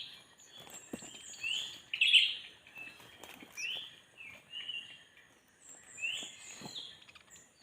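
Small birds chirping: a string of short rising chirps repeated about once a second, some higher and thinner notes among them, with a few faint knocks.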